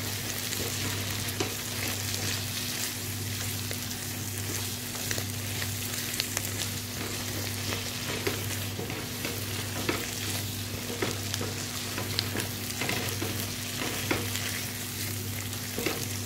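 Pieces of liver in thick masala sizzling in oil in a wok while being stirred, giving a steady frying hiss with frequent short clicks and scrapes of the spoon against the pan. This is the final dry-frying (bhuna) stage, after the oil has separated from the masala.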